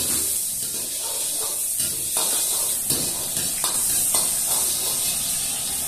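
Garlic frying in oil in a wok, a steady sizzle, with a metal ladle knocking and scraping against the wok several times from about two seconds in.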